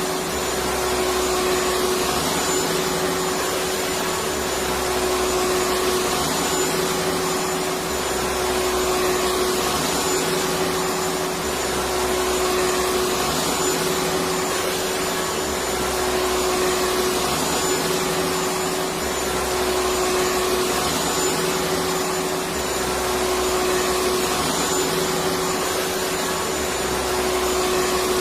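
Vacuum cleaner running continuously: a steady motor whine over airflow noise, swelling slightly every few seconds.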